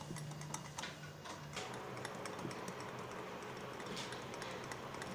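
A utensil clicking and scraping quickly and irregularly against a mixing bowl as butter and sweetened condensed milk are beaten to a smooth, fluffy cream.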